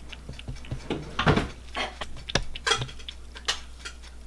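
Kitchen utensils clinking and knocking against bowls and dishes in irregular taps, with louder knocks about a second in and again about two and a half seconds in.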